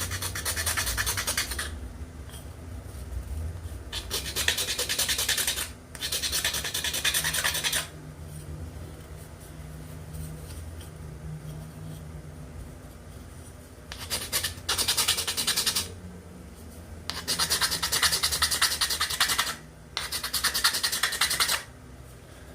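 Wood being shaped by hand with an abrasive tool, in six bursts of quick back-and-forth rubbing strokes with short pauses between them.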